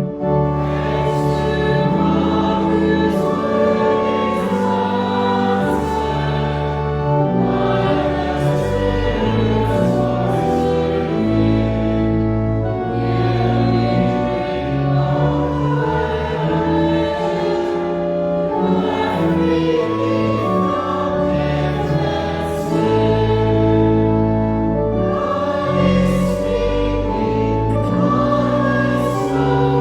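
A choir singing a hymn in slow, sustained phrases over held bass notes.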